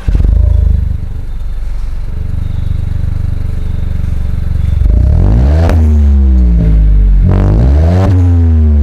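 A 2020 Honda City 1.0 turbo's engine, breathing through an aftermarket Prodrager exhaust, comes to life with a loud flare and settles into a steady idle. About halfway through the throttle is blipped twice, each time rising in pitch and falling back.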